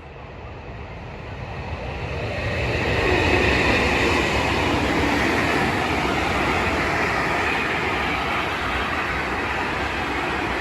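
Freight train passing close by: the rumble and wheel-on-rail noise of the wagons grow louder over the first few seconds, then hold steady as the train runs past.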